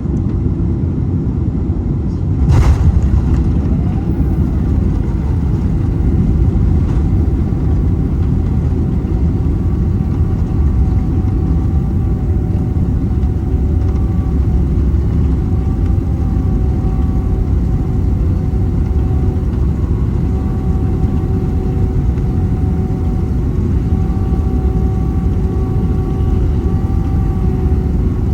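Boeing 767 landing: a sudden thump about two and a half seconds in, likely the wheels touching down. A loud, steady low rumble follows as the jet rolls out, with faint whining engine tones coming and going.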